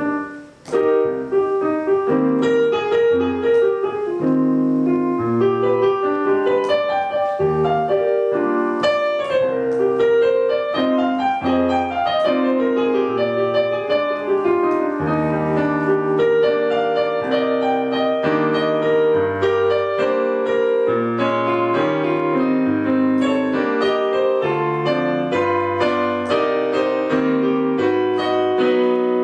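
Solo piano playing an instrumental passage of chords over a moving bass line, with a brief break just under a second in and no singing.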